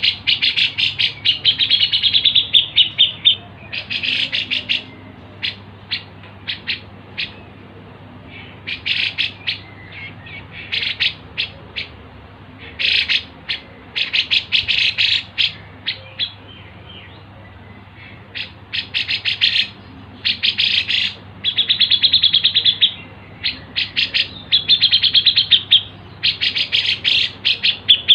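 A small songbird chirping fast, repeated notes in bouts of one to two seconds with short pauses between them. The bouts go on throughout, as in a bird-song tutor recording.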